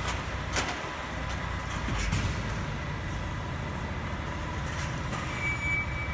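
Heavy vehicle engine running steadily with a low rumble, with a few sharp clicks. About five seconds in, a high steady electronic beep starts, like a truck's reversing alarm.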